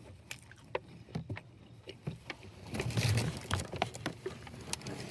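Close-up eating sounds: a bite into a burger and chewing, with scattered small clicks and a louder, denser stretch of chewing noise about three seconds in.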